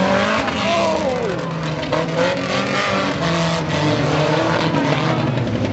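Several old pre-1976 banger-racing cars' engines running and revving together on the track, their overlapping notes rising and falling; one engine's note falls away about a second in.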